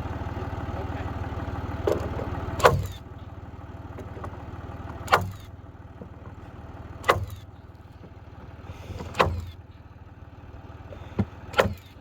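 Tractor engine running steadily, dropping to a lower level a few seconds in. Over it come sharp knocks about every two seconds, with a quick double knock near the end.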